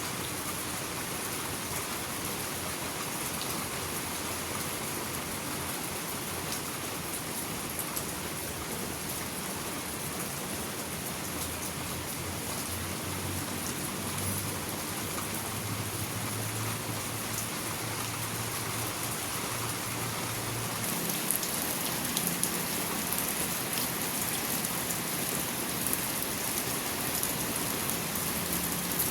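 Steady rain falling, a continuous hiss of drops on surfaces, slightly heavier about two-thirds of the way through. A faint low hum runs under it for part of the time.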